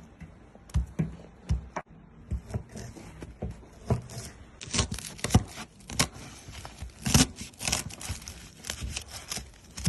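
D2-steel hunting knife slicing through frozen fish: a run of irregular cutting and scraping strokes, coming quicker and louder about halfway through.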